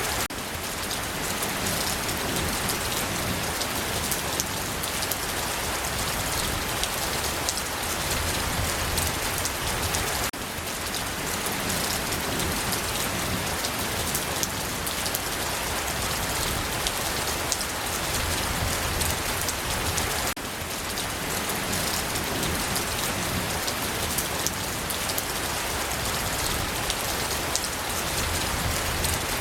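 Steady rain falling: a dense, even hiss of rain with many sharp individual drop ticks. Its level dips briefly about every ten seconds.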